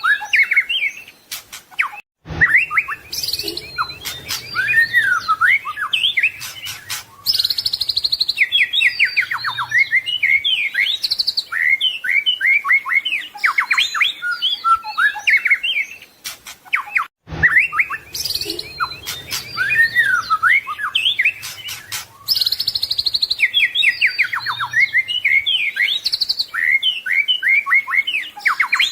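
White-rumped shama (murai batu) singing a rapid, varied song of whistles, trills and chirps, the full-repertoire mimicking song used as a training track for cage birds. The recording drops out briefly about two seconds in and again past the middle, and the same passage of song repeats after each gap.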